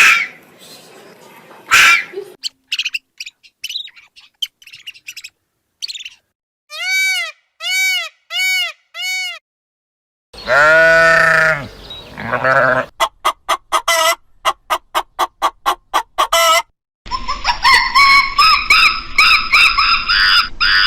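A series of different farm animal and bird calls, one short clip after another, with brief silent gaps between them.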